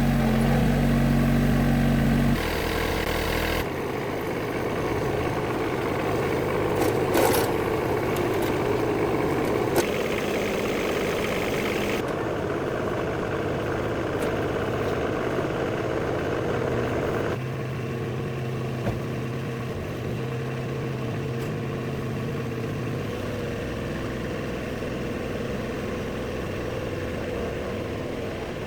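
An engine running steadily. Its tone and loudness change abruptly a few times, with a few short clicks about a third of the way in.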